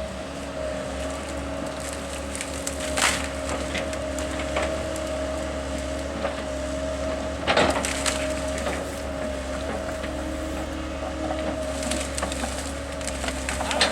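Wood cracking and splintering, with sharp cracks about three seconds and seven and a half seconds in and a run of crackling near the end, over the steady hum of a machine's engine.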